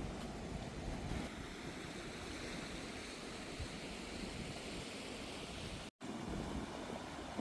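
Steady rushing water, an even hiss without tones, broken by a momentary silence just before six seconds in.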